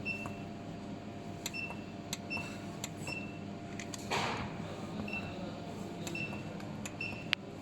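Short, high electronic beeps, about six or seven at uneven intervals, from buttons pressed on a laser welder's water chiller control panel while its settings are changed, with small clicks between them. A brief hiss comes about four seconds in, over a steady low machine hum.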